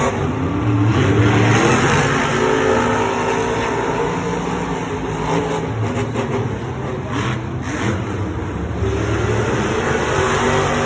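Monster truck supercharged V8 engines racing at full throttle, loud and continuous, their pitch rising and falling as the drivers rev through the course.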